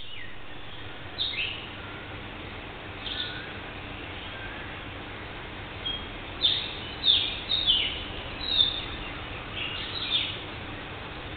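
Birds calling: short, sharp notes that each drop quickly in pitch, scattered at first and coming thick and loud in a run of five or six about halfway through, over a steady background noise.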